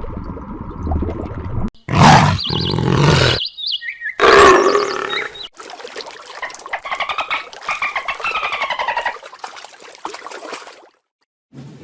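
Several different animal calls in quick succession, with short gaps between them: two loud harsh calls a couple of seconds in, then a long run of rapidly repeated pitched calls that stops about a second before the end.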